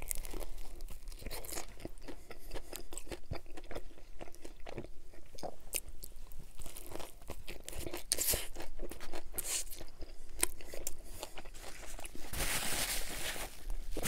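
Close-miked crunchy chewing of a Subway Italian BMT sub with lettuce, cucumber, pickle and green pepper, with many small crackles through the chewing. Paper rustling near the end.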